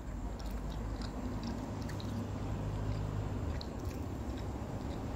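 A person chewing a mouthful of sushi close to the microphone: soft, scattered wet mouth clicks over a steady low hum.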